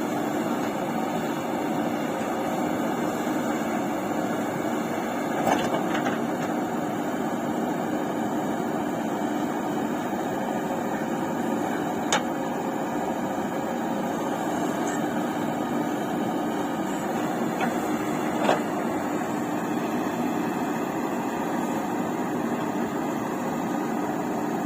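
Heavy diesel engine running steadily, with a few short sharp knocks about 5, 12 and 18 seconds in.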